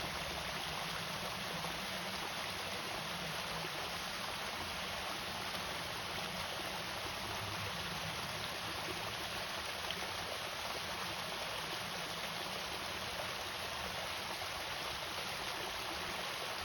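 Water pouring steadily over a small irrigation waterfall, a constant rushing with no break or change.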